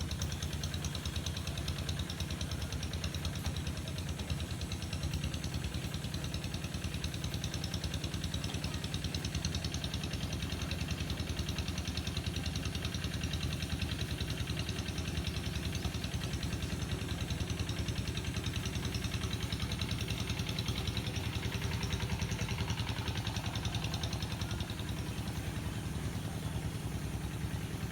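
An engine running steadily at an even pace, with a fast regular pulse and a deep low end.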